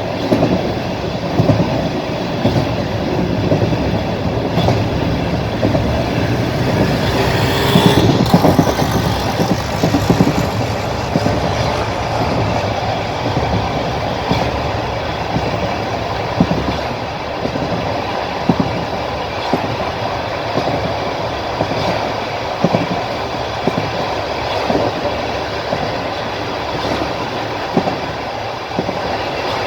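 Passenger train running at speed, heard from a carriage window: steady rumbling running noise with wheels clacking over rail joints at irregular intervals. The noise swells and grows louder about eight seconds in, then settles back.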